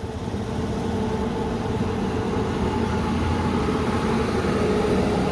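Steady street traffic drone with an engine-like hum, growing slightly louder toward the end.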